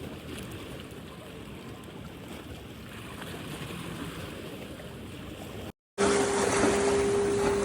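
Wind and sea waves rushing on the microphone, an even low wash. After a brief dropout about six seconds in, the wash comes back louder with a steady low hum under it.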